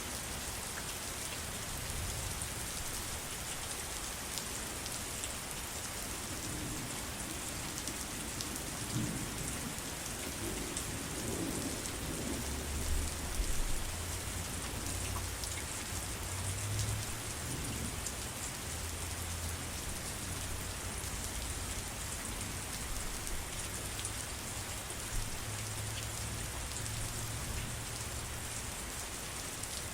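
Steady heavy rain, an even hiss with scattered drops ticking, and a low rumble of thunder rolling in about six seconds in and fading near the end.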